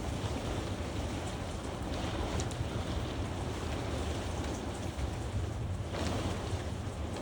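Thunderstorm rain and gusty wind, with wind buffeting the microphone in a steady low rumble and scattered sharp ticks of drops striking.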